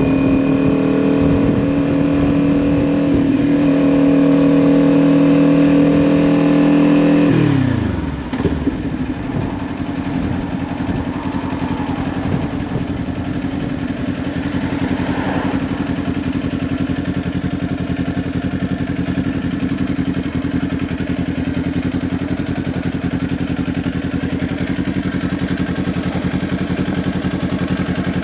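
Kawasaki Ninja 400's parallel-twin engine through a Leo Vince LV10 exhaust, held at steady revs under way. About seven seconds in the throttle closes and the revs fall quickly, then the engine runs steadily at low revs.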